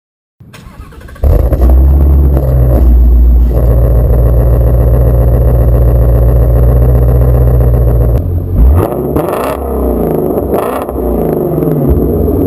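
2016 Shelby GT350's 5.2-litre flat-plane-crank V8 and exhaust, starting faint and becoming loud about a second in, then holding steady revs for several seconds. From about two-thirds of the way through, the engine note rises and falls in pitch several times as the revs change, then settles again near the end.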